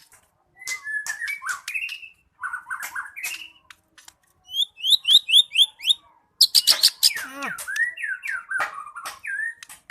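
White-rumped shama (murai batu) singing in full, varied song: whistled and chattering phrases with sharp clicks, broken by short pauses. Midway comes a quick run of about six sharp rising notes, then the loudest part, a burst of notes sweeping down.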